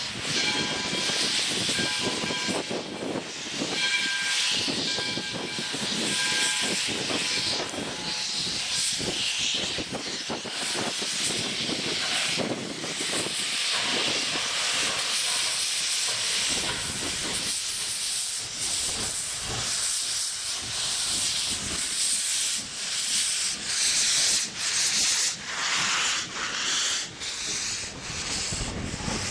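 Nevada Northern No. 93, a 2-8-0 steam locomotive, hissing steam, with a steady multi-tone whistle sounding for roughly the first seven seconds. Wind buffets the microphone throughout.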